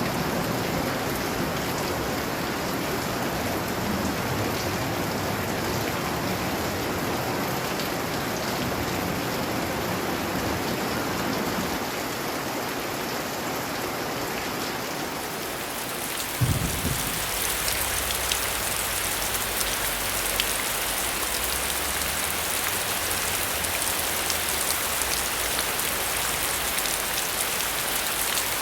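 Steady rain falling. A little past halfway there is a short low thump, after which the rain sounds brighter and hissier.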